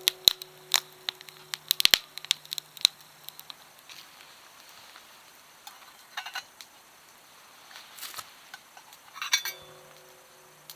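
Metal camp cookware clinking, with a struck-metal ring that fades over a couple of seconds at the start and again near the end. Sharp clicks come thickly for the first few seconds, then a few at a time.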